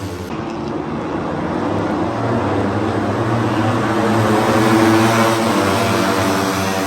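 Racing motorcycle engines droning from the track, a steady mechanical hum that swells to its loudest about five seconds in and then eases.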